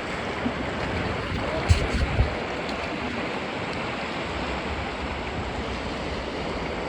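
Steady rush of flowing river water, with a few short low bumps on the microphone about two seconds in.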